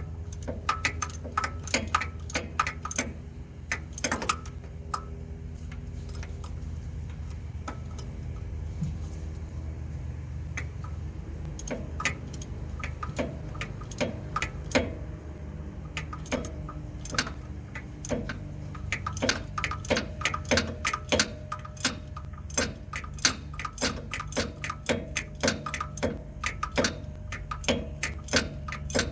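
Hand ratchet wrench clicking in quick runs as bolts are worked loose, over a steady low hum.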